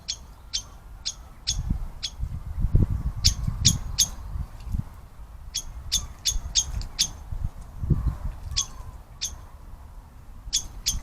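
A bird's short sharp call notes, repeated irregularly in quick runs, over a low rumble that comes and goes.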